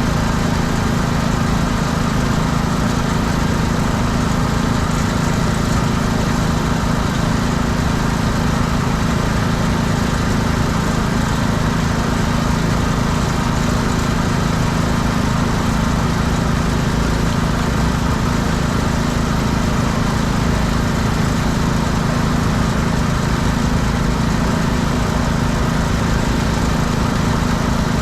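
Small engine of a pressure washer running steadily at constant speed, unbroken throughout.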